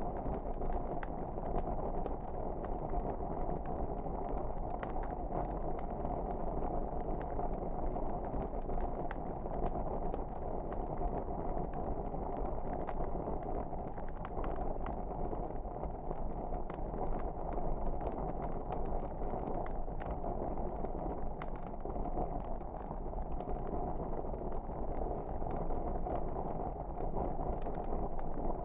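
Wood fire burning in a fireplace: a steady low rushing with frequent small, irregular crackles and pops.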